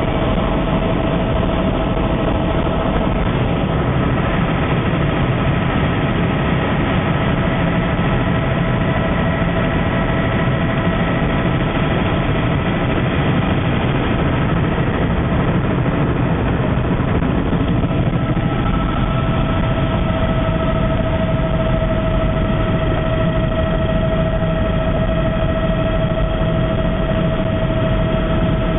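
Helicopter in flight, a loud steady drone of engine and rotor with a constant turbine whine over a low rumble.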